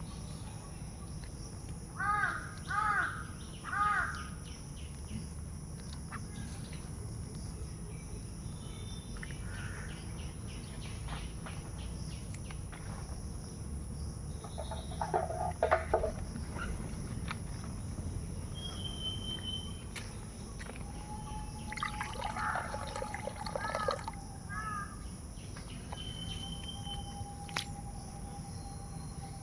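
Crows cawing outdoors: three caws in quick succession about two seconds in, then further scattered caws, over a steady high-pitched hum.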